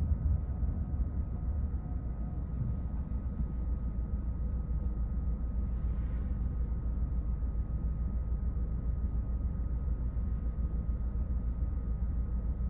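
Car driving along, a steady low rumble of engine and tyres on the road, with a brief hiss about six seconds in.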